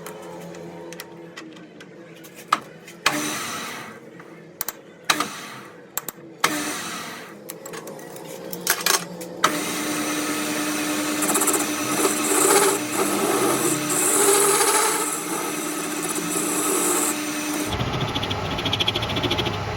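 Metalworking shop sounds: scattered sharp clicks and knocks of tools on metal, then a power tool runs steadily for about eight seconds and cuts off suddenly.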